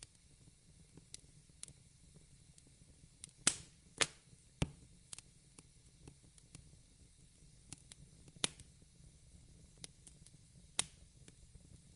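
Wood fire crackling: irregular sharp pops and snaps over faint low background noise, with a cluster of louder pops about three and a half to four and a half seconds in.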